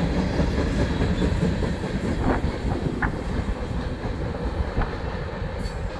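Mixed freight train cars rolling past with a steady rumble and clickety-clack of wheels over the rails. There are two brief high squeaks about two and three seconds in, and the rumble eases off slightly toward the end.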